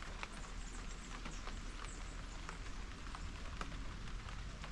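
Light rain falling, with scattered drips ticking on the deck, and faint high bird chirps now and then.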